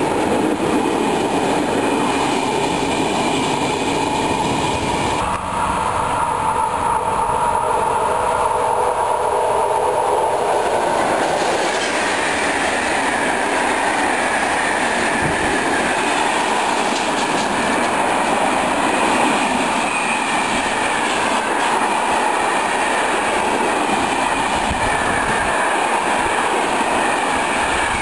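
Freight wagons rolling past close by, their wheels running steadily over the rails.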